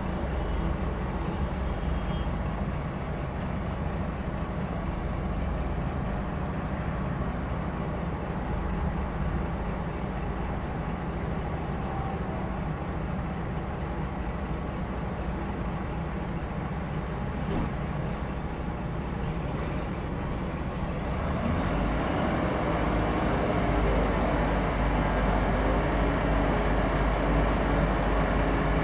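Heavy diesel engine running steadily, growing louder about two-thirds of the way through as it works harder.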